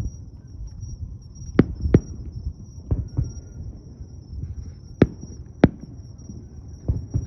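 Fireworks shells bursting overhead: several sharp bangs, irregular and about a second apart, over a low continuous rumble from the display. A faint high steady whine sits under it.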